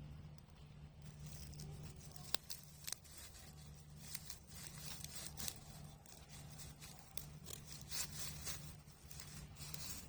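Spear thistle burning in a fire pit: faint, irregular crackling with a few sharp pops.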